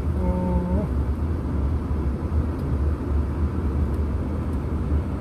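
Strong dust-storm wind buffeting the microphone: a heavy low rumble that rises and falls with the gusts. About a quarter second in, a short steady pitched tone sounds for about half a second.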